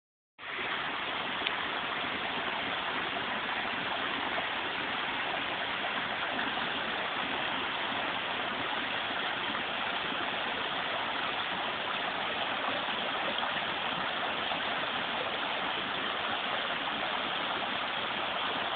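Small brook babbling and splashing over rocks, a steady rush of running water.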